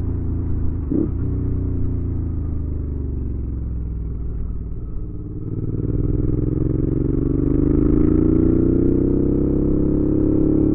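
2019 Suzuki V-Strom 650's 645 cc V-twin engine running through a Delkevic aftermarket exhaust while riding. The revs fall for about five seconds, then climb as the bike accelerates and hold high near the end, where it is loudest.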